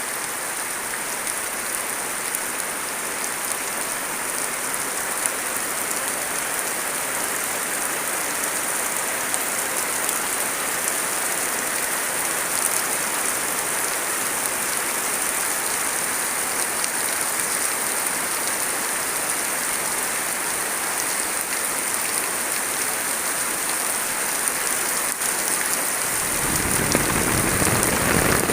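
Steady rain falling, an even dense patter of drops on surfaces. Near the end a deeper rushing noise joins in and the sound grows a little louder.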